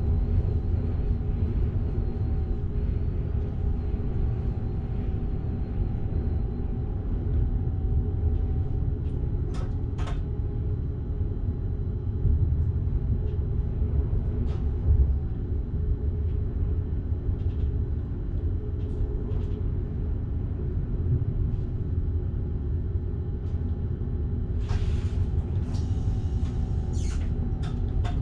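Electric passenger train running along the line, heard from the driver's cab: a steady low rumble with a hum over it and a few sharp clicks. A short burst of hissing comes near the end.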